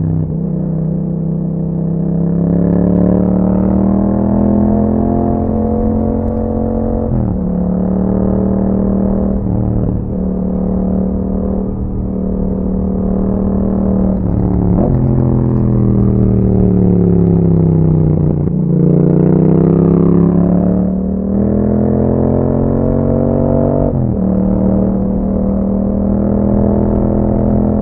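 2021 Yamaha MT-07's 689 cc parallel-twin engine running through an Akrapovic exhaust while riding. It pulls through several gear changes, the revs climbing and then dropping at each shift. About halfway through the revs fall steadily for a few seconds before it accelerates again.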